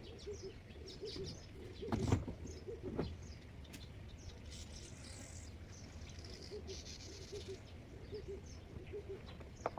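A bird calling in short groups of low, soft repeated notes, with small birds chirping higher up. A couple of knocks sound about two and three seconds in.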